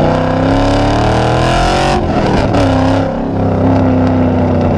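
Chevrolet Camaro SS's V8 engine accelerating, its pitch climbing for about two seconds. The pitch drops at an upshift and the engine then runs at a steady pitch.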